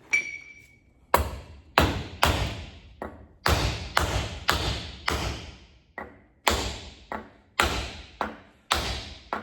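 Metal blows tapping a new bearing onto a John Deere 430 baler gearbox shaft to start it before pressing: a run of about fifteen sharp knocks, one or two a second, the first ringing briefly.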